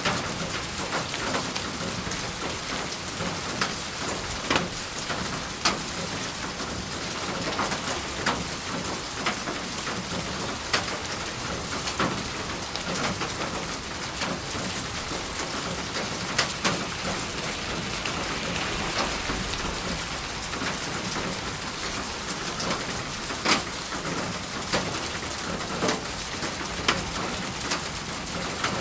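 Steady rain falling, with close individual drops landing as sharp ticks every second or so over the even hiss.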